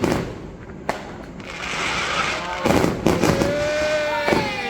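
Fireworks going off: several sharp bangs, a hissing crackle, then a long, steady, whistle-like tone that starts to fall in pitch at the end.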